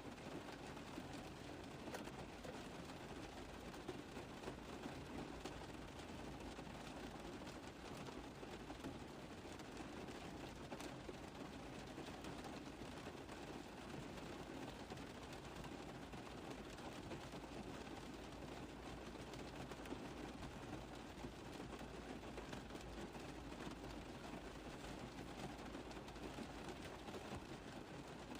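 Steady rain falling on a car roof, a dense, even patter of many small drop taps.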